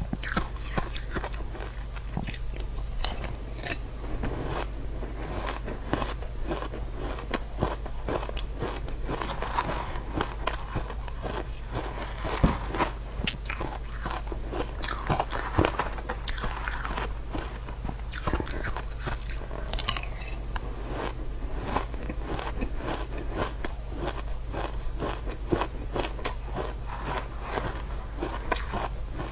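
A person biting into freezer frost, many crisp crunching bites in quick, irregular succession, with a steady low hum underneath.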